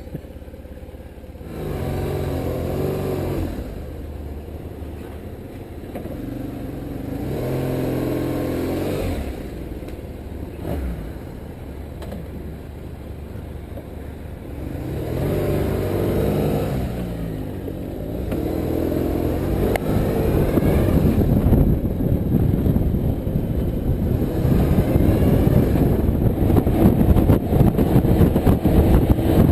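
Motorcycle engine pulling away and accelerating through the gears, the revs rising and dropping back at each of several shifts, with a growing rush of wind noise towards the end.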